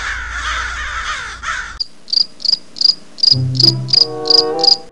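Cricket-chirp sound effect, a short high chirp repeated about three times a second, the stock cartoon gag for an awkward silence. It follows a noisy rushing sound in the first second and a half, and a few low music notes come in under it past the middle.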